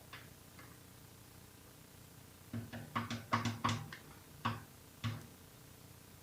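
Stock camshaft of a GM LS V8 being slid out of the block by hand: a run of about eight knocks over two and a half seconds, bunched at first and then two more spaced apart, as the cam lobes and journals bump against the cam bearings.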